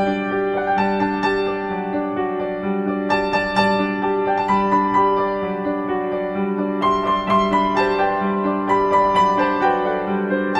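Slow, sad piano music: sustained chords over a repeating low figure, with a melody of struck notes above.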